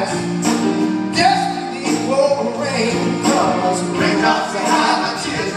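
A live soul band playing, with male singing over it.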